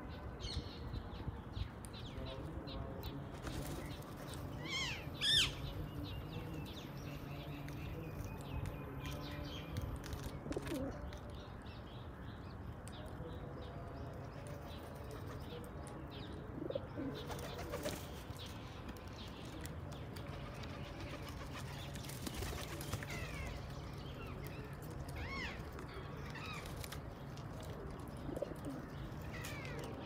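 Birds calling: several low calls and a few high, sliding chirps, the loudest chirp about five seconds in, over a steady low hum with scattered clicks.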